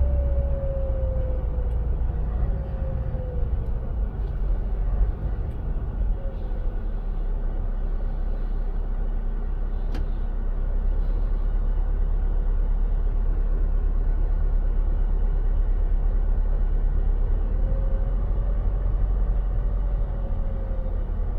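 Scania 590S V8 truck driving, with a steady heavy low rumble from the engine and road. A whining tone falls in pitch over the first few seconds and rises and falls again near the end, and there is a single sharp click about ten seconds in.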